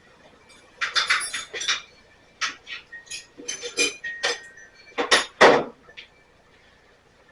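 Metal hand tools clinking and rattling against each other in several quick clusters of sharp clinks, some ringing briefly, typical of a wrench being picked out from among other tools.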